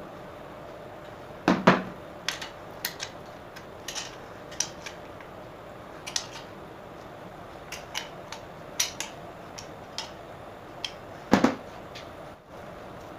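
Hand tools and small metal parts clinking and tapping: a dozen or so sharp clicks, with two heavier knocks about a second and a half in and near the end, over a steady background hum.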